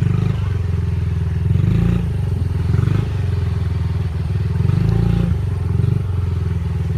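Dirt bike engine running while being ridden, its pitch and loudness swelling and easing a few times with the throttle, with some rattle from the bumpy ride.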